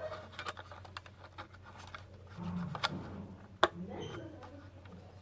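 Small plastic clicks and ticks as the keypad's ribbon cable is pressed into its connector lock, with two sharper snaps a little under three seconds in and just under a second later, the second the loudest.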